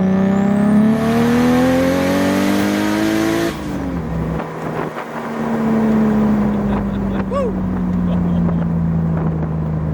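Turbocharged BMW M52 inline-six at full throttle, revs climbing steadily with a rushing hiss over the engine note. About three and a half seconds in, the throttle is lifted suddenly and the revs fall away, and the engine then settles into a slowly falling off-throttle note.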